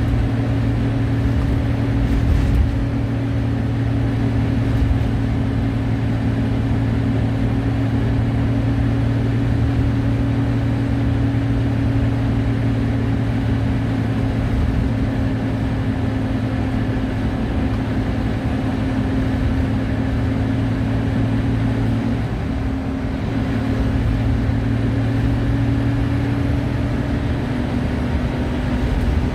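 Scania-engined Wright Solar Rural single-deck bus running at steady speed, heard on board: a constant engine drone over road noise, with a brief knock about two and a half seconds in.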